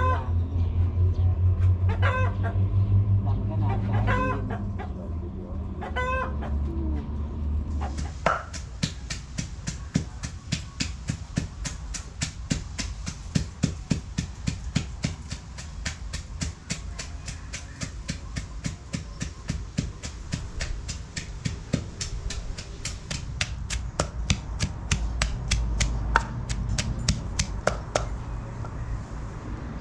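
A chicken calling repeatedly, about every two seconds, over the first eight seconds. After that comes a long run of rapid, sharp clicks, several a second.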